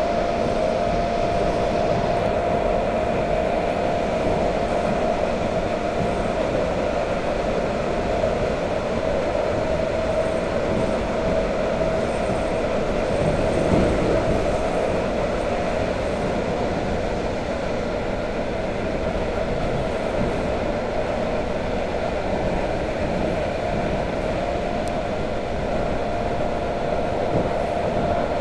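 Electric commuter train (elektrichka) running at speed, heard from inside the carriage: a steady rumble of wheels on the rails with a constant whine over it.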